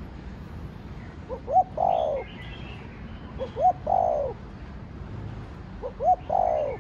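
Spotted dove (Streptopelia chinensis) cooing: three phrases about two seconds apart, each a couple of short clipped notes followed by a longer falling coo.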